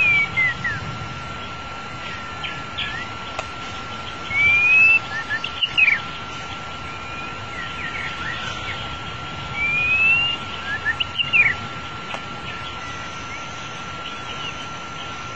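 White-rumped shama song used as a lure call: a clear rising whistle followed by a few quick falling notes, the same phrase repeated about every five and a half seconds. A thin steady high tone runs underneath.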